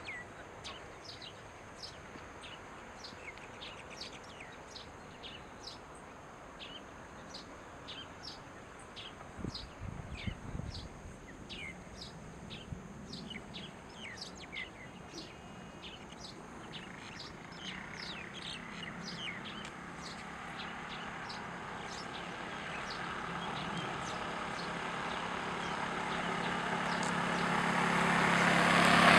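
A small bird chirps over and over, a short falling note about twice a second. In the last ten seconds the hum of an approaching motor vehicle grows steadily louder.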